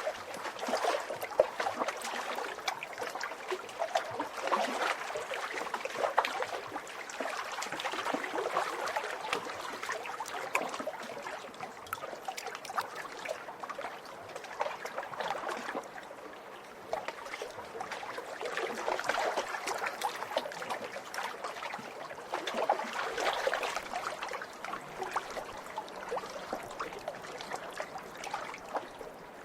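Small waves lapping and splashing at a lake's edge, a steady wash of little splashes that swells and eases every few seconds.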